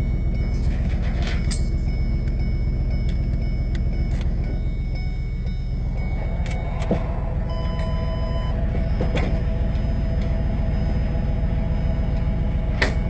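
Tow truck's engine running with a steady low rumble; the truck is loud because its muffler needs fixing. A few faint clicks over it.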